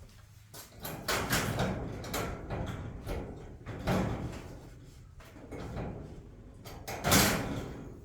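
Scraping and sliding noises in three rough strokes: one about a second in lasting over a second, a shorter one around four seconds, and the loudest near the end, like metal pieces being slid or dragged against each other.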